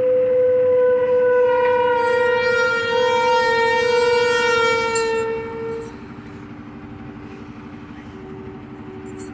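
A loud horn held as one long blast of about six seconds, its pitch sagging slightly before it stops. A steady low hum continues underneath.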